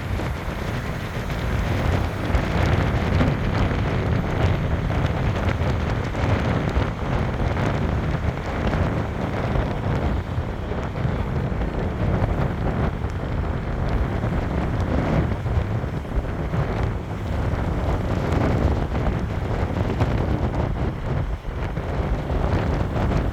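Wind buffeting the microphone in a heavy, uneven rumble, with sea waves washing in behind it.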